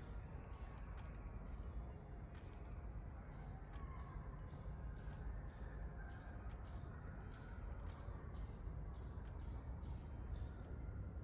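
Birds calling outdoors: short high chirps repeat about every half second to a second, with higher double notes every couple of seconds, over a steady low rumble.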